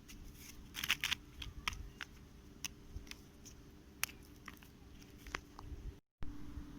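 Faint, irregular crunching and crackling of sand, with a cluster of sharper crunches about a second in.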